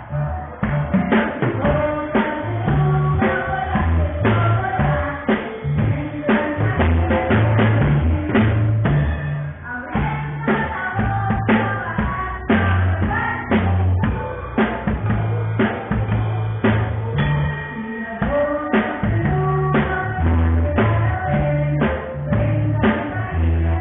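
Live ensemble music: an orchestra playing with a drum kit keeping a steady beat under a moving bass line and melody.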